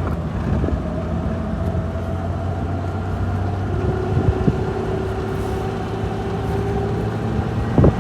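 2000 Jeep Wrangler engine running under way while the automatic transmission stays in first gear and fails to upshift: a steady drone with a held whining tone in the middle. Two short knocks, about four and a half seconds in and near the end.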